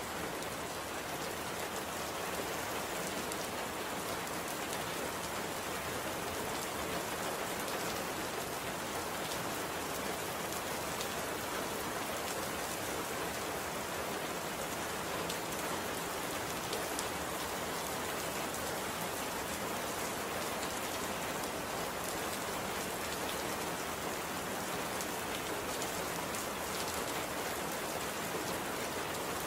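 Steady rain falling, an even hiss with many fine drop ticks on a surface.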